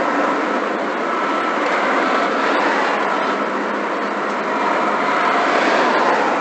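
Heavy vehicle running with a steady, loud rushing noise and a faint thin tone that comes and goes.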